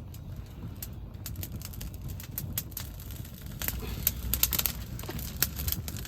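Open fire of sticks and crop stalks crackling and popping, with sharp pops coming more often in the second half, over a low steady rumble.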